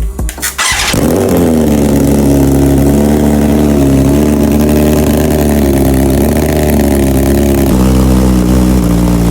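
BMW S1000RR inline-four engine breathing through an Akrapovič titanium exhaust: a loud bark about a second in, then a steady, even idle.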